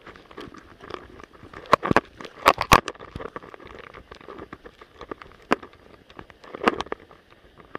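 Irregular sharp clicks and knocks, loudest in a cluster about two to three seconds in, with a few more scattered later.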